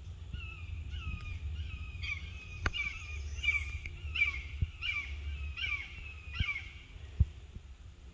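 A bird calling a rapid series of about ten harsh, downslurred calls, one every two-thirds of a second or so, stopping near the end. Low wind rumble and a few sharp thumps are heard underneath.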